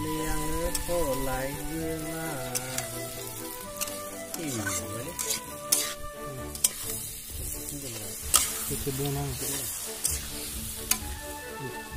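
Pork and roselle leaves sizzling in a metal wok while a metal spatula stirs and scrapes through them, with repeated sharp clicks of the spatula against the pan. A melodic music track plays underneath.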